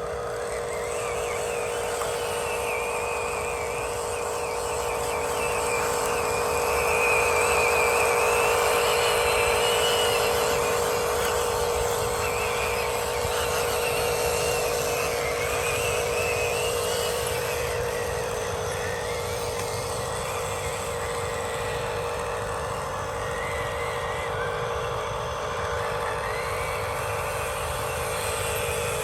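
Small electric motors and gearboxes of radio-controlled construction models whining steadily, with a higher whine that rises and falls as the machines work.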